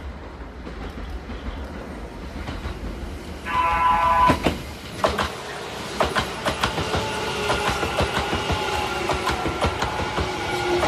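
Kintetsu 50000 series Shimakaze limited express electric train passing close by. A short steady horn blast sounds about three and a half seconds in. The wheels then clack rapidly over the rail joints under a slowly falling whine as the cars go by.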